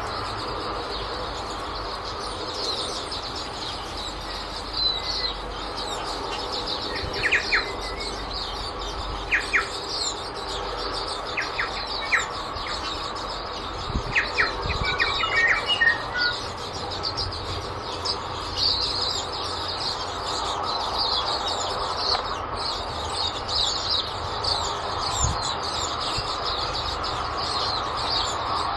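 A flock of waxeyes (silvereyes) twittering as they feed: many short, high, thin chirps over a steady background hiss, with a run of louder, lower chirps in the middle.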